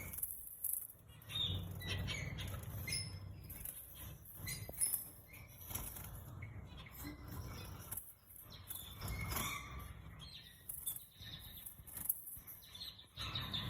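Canaries fluttering their wings, with irregular short chirps.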